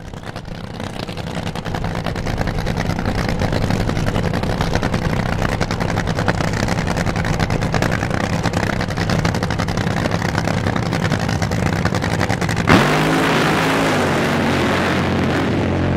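Top Fuel hydroplane's supercharged nitromethane V8 running with rapid, even firing pulses, growing louder over the first couple of seconds. About three-quarters of the way in, a sharp crack marks an abrupt change to a steadier, lower drone.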